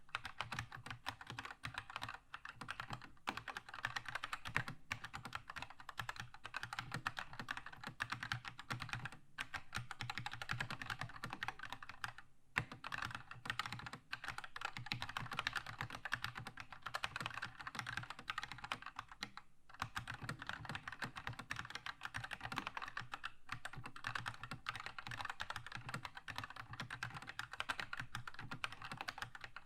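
Fast, continuous typing on a Keychron K2 mechanical keyboard with Red switches, dense key clicks broken by a few short pauses.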